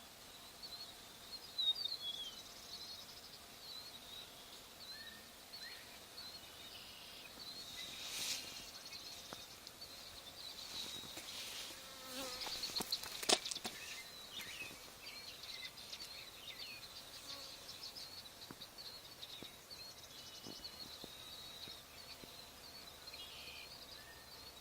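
Honey bees buzzing faintly around a swarm, with small high chirps repeating throughout and two brief knocks, about eight and thirteen seconds in.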